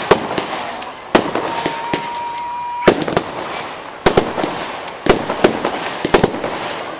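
Fireworks going off: a string of loud, sharp bangs from bursting shells, with crackling in between. In the middle a steady whistle lasts over a second and ends at one of the bangs.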